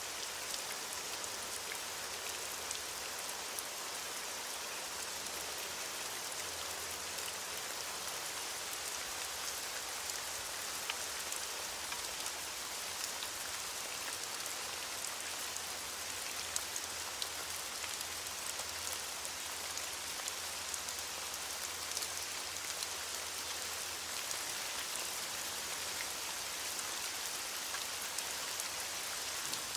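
Steady rain falling, a constant hiss with many small drop ticks on a hard surface.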